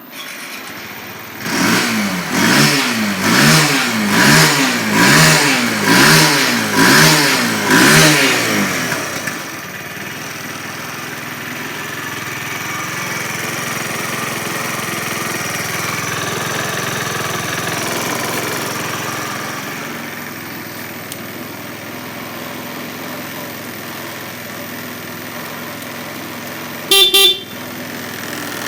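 2016 Kawasaki Z125 PRO's 125 cc single-cylinder four-stroke engine running. It is revved up and down about seven times, roughly once a second, then settles into a steady idle. A short horn beep sounds near the end.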